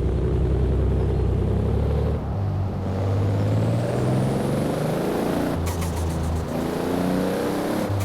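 Toyota Supra RZ's 2JZ-GTE straight-six with a big single turbo, pulling hard as its engine pitch climbs and a high turbo whistle rises with it. A little past the middle, as the throttle closes, comes a brief rapid fluttering hiss: turbo flutter.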